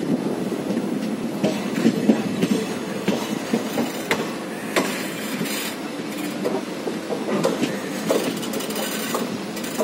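Passenger train running on curved track, heard from a coach doorway: a steady rumble of wheels on the rails with irregular sharp clicks.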